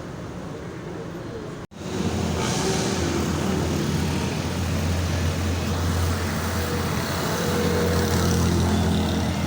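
Steady low rumble of vehicle traffic, which starts abruptly and louder about two seconds in, after a brief cut to silence.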